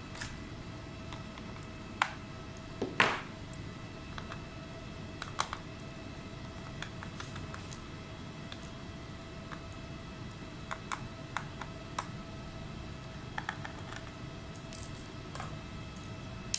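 Scattered small clicks and taps of a laptop's parts and tools being handled during disassembly, the loudest about three seconds in, over a steady faint hum.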